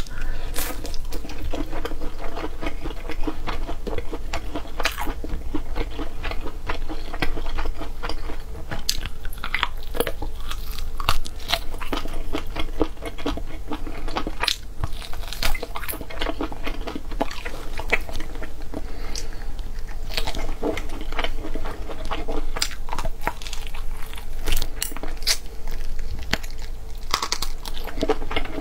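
A person chewing and biting stewed meat off the bone and morel mushrooms, close to a clip-on microphone: steady wet chewing with many small crunchy clicks.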